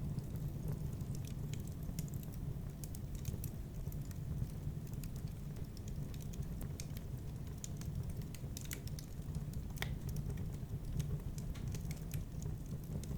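Fire crackling in a fireplace: irregular sharp pops and snaps over a steady low rumble of the flames, with one louder snap near ten seconds in.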